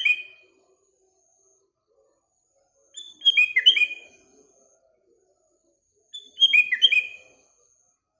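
Sooty-headed bulbul (kutilang) singing its short, bubbly phrase of quick falling notes, the same phrase repeated about every three seconds: the end of one at the start, then two more, about three and six seconds in. A faint thin high note from another bird sounds between the phrases.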